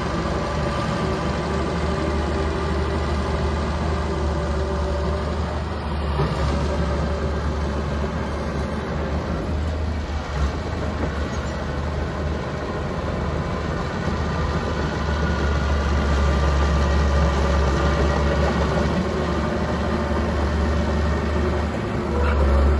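Small bulldozer's engine running steadily with a strong low hum, a little louder in the second half.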